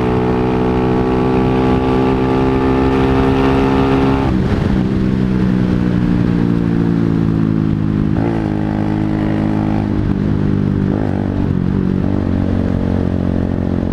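A 125cc motorcycle engine is held at high revs, rising slowly, and the throttle is snapped shut about four seconds in to try to make it backfire. The revs then wind down, with three short blips of throttle later on.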